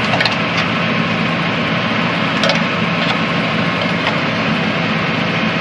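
An engine idling steadily, with a few light clicks and knocks of hand work on the baler, one near the start and one about two and a half seconds in.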